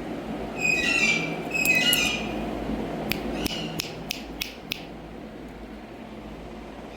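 Indian ringneck parakeet giving a few short, high chirping calls about a second in, followed by a quick run of about six sharp clicks.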